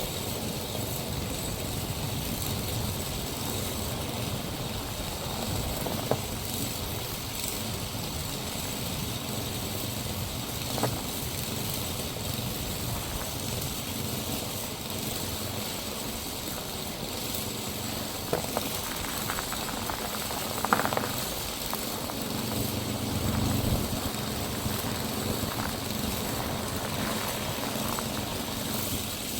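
A small gasoline engine running steadily under load, with a few sharp clicks or knocks scattered through it.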